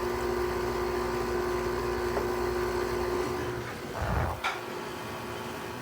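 Haier 5,200 BTU window air conditioner's motor humming steadily, then cutting out about three and a half seconds in. A short rushing noise and a sharp click follow, leaving a fainter steady hiss.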